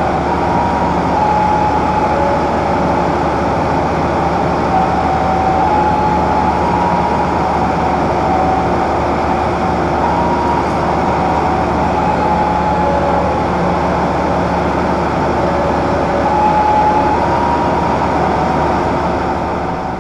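Passenger train coaches rolling past: a steady rumble of wheels on rails, with high metallic squeals that come and go and step up and down in pitch. The sound fades slightly at the very end.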